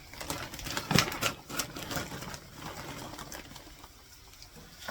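Frozen mixed vegetables poured from a bag into a skillet: a quick rattle of small hard pieces hitting the pan, busiest in the first few seconds and thinning out toward the end.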